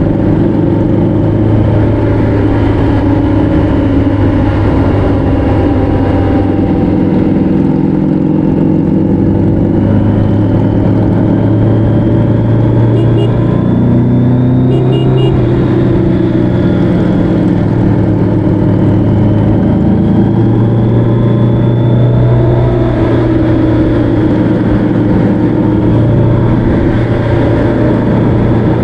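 Motorcycle engine running steadily while riding along a winding road, its pitch drifting gently up and down with the throttle, over a constant rush of wind and road noise.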